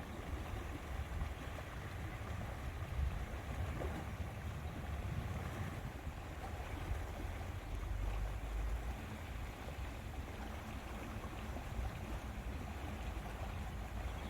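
Lakeside outdoor ambience: wind with a low rumble that swells and eases, and water lapping at the shore.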